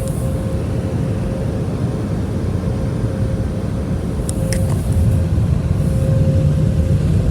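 Car wash blow dryers blasting air over the car, a loud, steady low rush with a thin steady hum running through it. A few light ticks come about four and a half seconds in.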